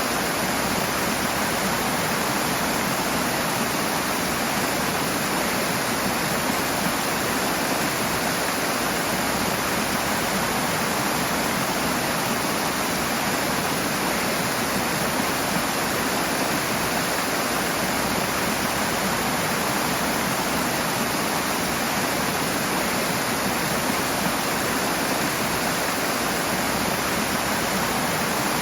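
Rushing water, a fast stream or cascade, flowing in a steady, unbroken rush.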